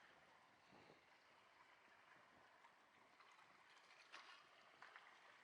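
Faint small waves lapping, a soft steady wash of water, with a couple of brief light clicks near the end.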